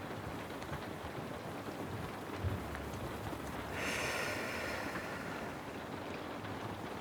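Steady rain falling, with a dull thump about two and a half seconds in and a louder hiss lasting nearly two seconds just after the midpoint.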